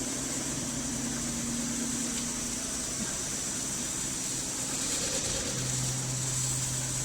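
Double-roller CNC metal spinning machine running: a steady machine hum with a thin high whine, and a deeper hum that joins about five and a half seconds in.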